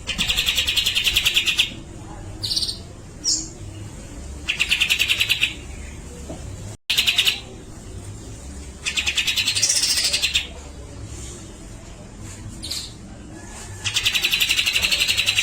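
Grey-cheeked bulbul (cucak jenggot) singing in harsh, rapid rattling bursts. There are five, each up to about a second and a half long, with a few short single notes between them.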